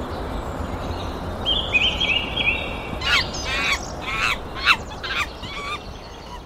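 Wild birds singing: a run of short, quickly repeated chirps, then several sharp whistled notes that each fall steeply in pitch, over a steady rushing background noise.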